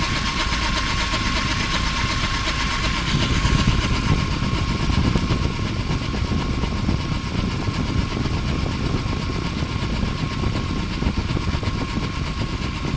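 ZMZ-409 four-cylinder petrol engine running with a steady high tone over the engine sound. The owner cannot identify this extra noise, which appeared after a cold start at −30 °C.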